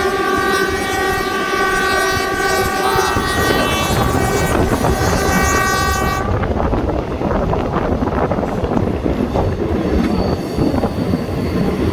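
Train horn sounding a long, steady note that cuts off about six seconds in. It leaves the rumble and clatter of the moving train's wheels on the rails.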